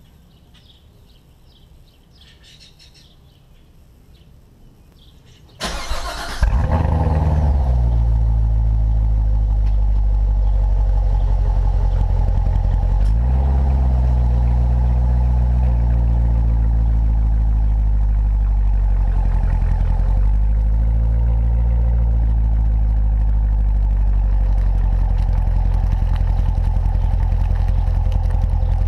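2014 Chevrolet Corvette Stingray's 6.2-litre LT1 V8, with the performance exhaust, cranking and firing up about six seconds in, flaring briefly and then settling into a steady idle, with a small rev blip about halfway. Before the start, faint bird chirps.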